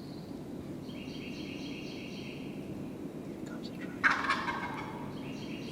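Wild turkey gobbler gobbling at a distance, a rattling gobble about a second in and another near the end. A sudden, louder sound comes about four seconds in.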